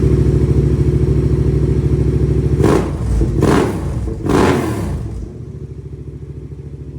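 Yamaha R7's parallel-twin engine idling through an aftermarket exhaust with its muffler can fitted. The throttle is blipped three times in quick succession a little before halfway in, then the engine settles to a quieter idle.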